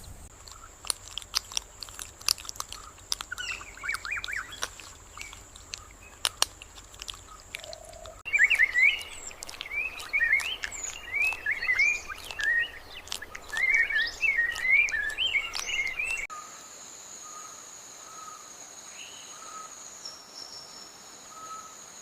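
Wild nature ambience in three spliced sections. A steady high insect-like whine with scattered clicks comes first, then about eight seconds of many birds chirping, which is the loudest part, then the high whine returns with soft short repeated notes. Each change cuts in abruptly.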